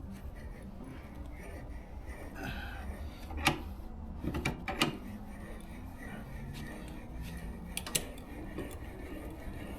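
A few scattered sharp metallic clicks and knocks from tools or the car jack being handled, over a low steady hum.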